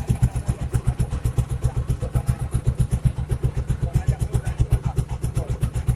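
Small boat's engine running at a steady speed, an even rapid thumping of about eight beats a second.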